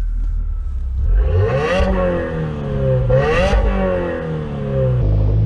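Subaru WRX's turbocharged flat-four engine running through a newly fitted cat-back exhaust. It idles, then is revved twice, about two seconds apart, the pitch climbing and falling back to idle each time.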